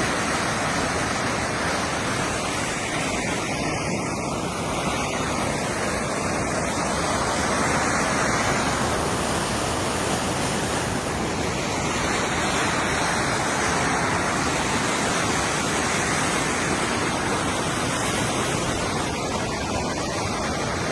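Flash-flood water rushing, a steady, unbroken noise.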